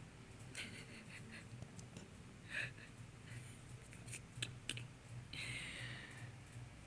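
Small kittens shuffling and scratching about, making faint scattered clicks and scrapes, with a longer, higher rustle about five seconds in.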